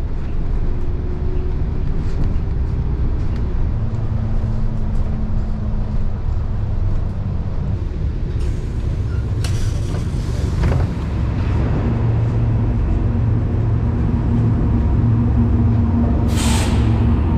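City bus engine running with a steady low rumble, and a short air-brake hiss near the end.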